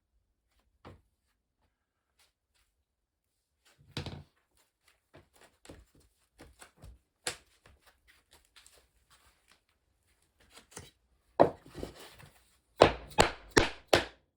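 Knocks and thunks of 2x2 ft compressed-wood sub-floor tiles being handled and fitted. Scattered light knocks are followed near the end by a run of about four loud, sharp knocks in quick succession.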